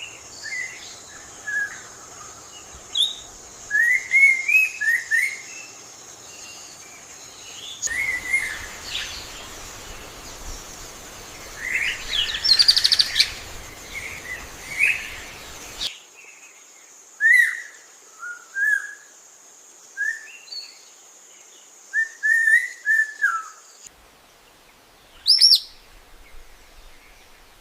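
Wild birds chirping and calling in short, repeated phrases, with a fast trill about halfway through and a loud whistled call near the end. A steady high-pitched background tone runs under the calls until about three quarters of the way in, and the background changes abruptly several times.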